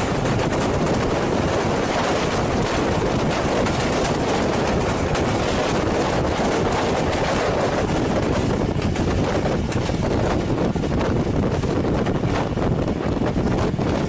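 Steady rushing of wind on the microphone, mixed with the running noise of a moving passenger train heard from an open coach door.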